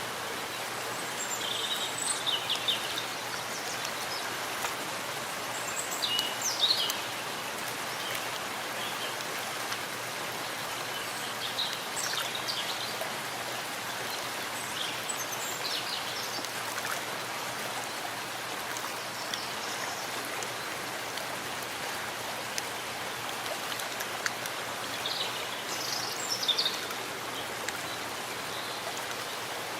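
Steady rain falling in a forest, an even hiss of drops on leaves. Brief high chirps rise above it a few times: about two seconds in, around six to seven seconds, and again near twenty-five seconds.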